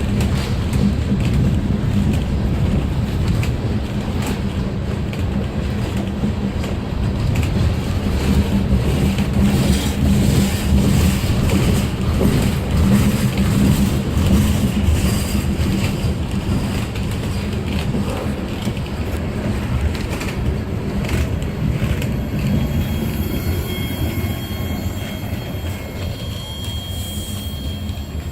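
CSX freight train rolling slowly past, a steady low rumble full of wheel clicks over the rail joints, easing off a little toward the end. A faint high thin tone joins in during the last few seconds.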